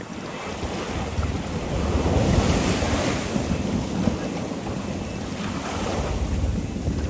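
Sea water rushing past a sailboat under way, with wind buffeting the microphone in a low rumble; a louder wash of water swells about two seconds in and eases off.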